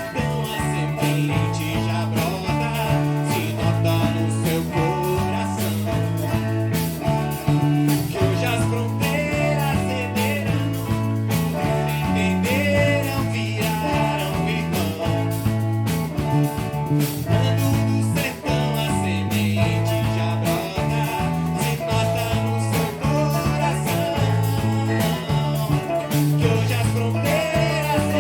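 A live rock band plays at a steady tempo: electric guitar and viola caipira over a stepping electric bass line and a regular drum beat.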